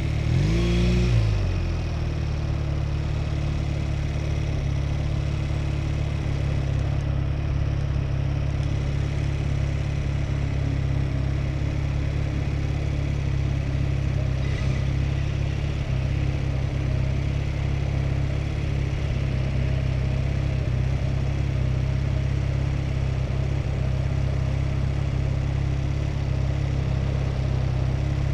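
Honda Rebel motorcycle cruising at steady freeway speed: a steady engine drone mixed with low wind rumble. About a second in, a short louder whoosh drops in pitch.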